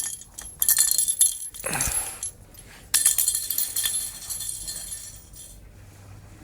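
Light metallic jingling in two bursts, one about a second in and a longer one from about three seconds, fading away near the end.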